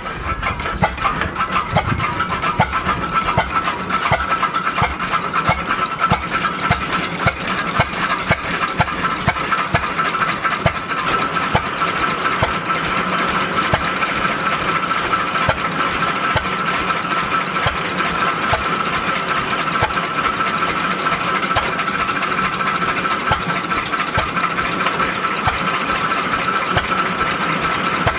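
1906 International 6 hp portable stationary engine running steadily, driving a Sunshine three-blade chaff cutter: a fast, even mechanical clatter with a constant high whine over it that grows stronger about ten seconds in.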